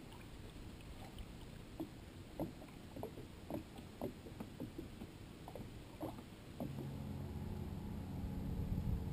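Small water splashes and light knocks on a kayak's hull. About two-thirds of the way in, a steady motor drone starts and grows louder.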